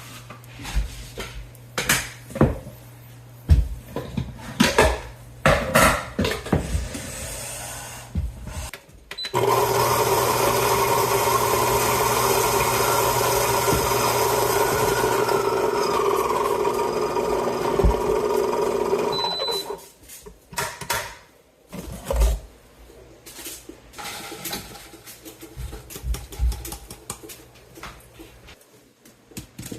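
A small electric kitchen appliance motor runs steadily for about ten seconds, starting and stopping abruptly, with scattered knocks and clinks of kitchen utensils before and after.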